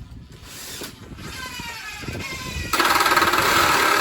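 A motor winding up with a slowly rising whine, then running loud and steady from nearly three seconds in.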